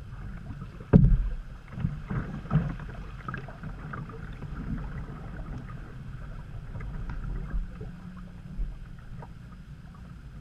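Canoe being paddled on a creek: water swishing against paddle and hull, with a few knocks, the loudest about a second in, over a steady low rumble.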